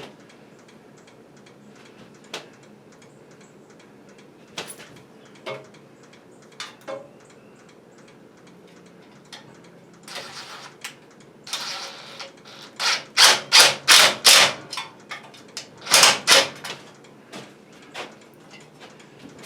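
Hand tools working on a small tiller engine while a fastener is broken loose, the piston held by a rope fed into the cylinder. A few light clicks and knocks, then from about ten seconds in a run of about ten loud, short strokes in quick bursts.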